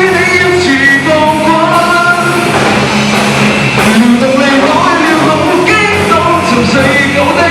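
Live rock song: a singer's voice carrying the melody over band accompaniment, loud and continuous.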